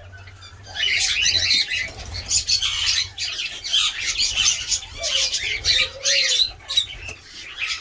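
A flock of caged cockatiels chattering and squawking, many calls overlapping, starting about a second in, over a low steady hum.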